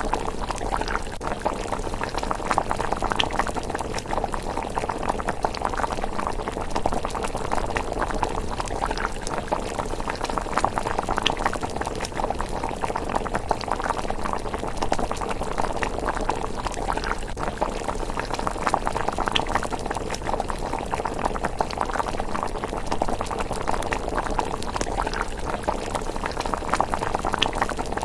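Thick miso rice porridge simmering in a pot, bubbling and popping steadily. A few sharper crackles from the wood fire under it come through now and then.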